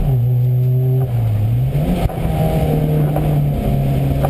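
Rally car's 1.4-litre engine heard from inside the Škoda Fabia. Its note drops suddenly at the start, sags a little lower, then climbs again about two seconds in and holds steady under throttle.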